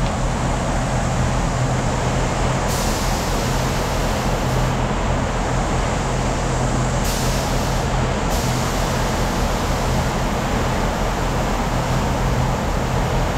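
Steady, loud machine noise: an even hiss over a constant low hum that does not change.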